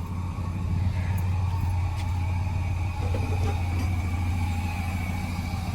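Chevrolet Monte Carlo SS's swapped-in 6.0 litre LS V8 idling steadily with an even low hum.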